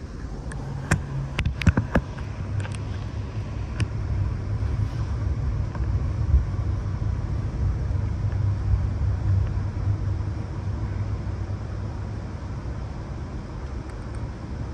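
Running noise inside an Amtrak Empire Builder passenger car under way: a steady low rumble of wheels on rail. A handful of sharp clicks and knocks come in quick succession during the first few seconds.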